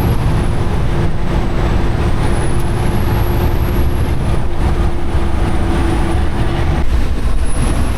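Semi-truck diesel engine running with a steady, heavy low rumble, and a faint high whine that slowly rises and falls.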